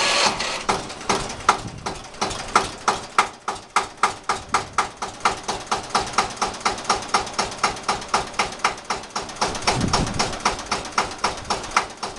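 Bautz AS 122 tractor's single-cylinder diesel engine running just after starting, with a steady knocking beat of about four firings a second.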